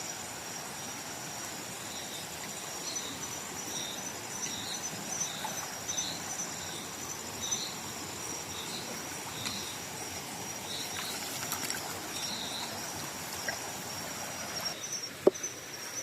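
Night insect chorus in tropical rainforest: a steady high-pitched trilling, with short chirping calls repeating about once or twice a second over an even hiss. A few sharp clicks sound near the end.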